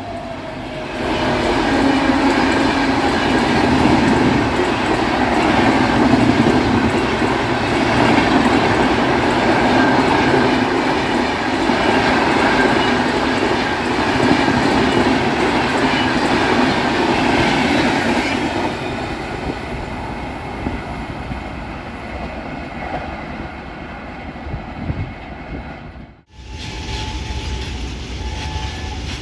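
Indian Railways express passenger train, hauled by an electric locomotive, passing at speed: a loud steady rush of wheels and coaches with clickety-clack over the rail joints. It eases off after about eighteen seconds. Near the end the sound cuts off abruptly and a lower rumble follows.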